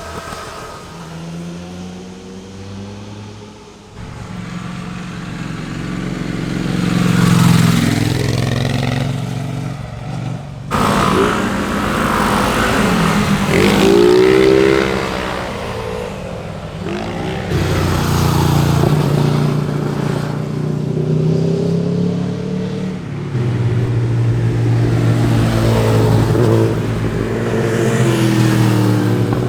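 Motorcycles passing one after another at speed, engines revving, with the engine pitch rising and falling as each goes by. The sound changes abruptly a few times, from one pass to the next.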